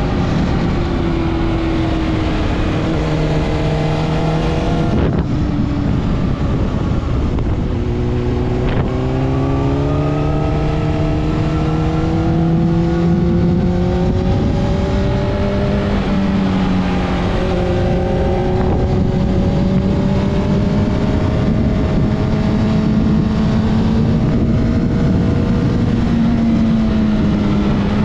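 Honda CBR600RR inline-four engine running under way, recorded on board. Its note climbs steadily as it pulls out of the bends and drops back sharply about five seconds in, again around eight seconds and past the middle. A rushing noise runs steadily underneath.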